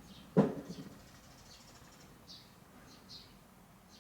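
A sharp knock about half a second in, followed by a few lighter knocks; small birds chirp briefly in the background several times.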